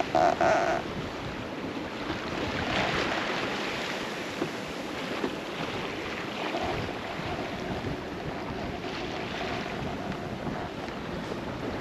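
Sailboat under sail: wind buffeting the microphone and water washing along the hull, steady throughout. A short pitched tone in the first second is the loudest part.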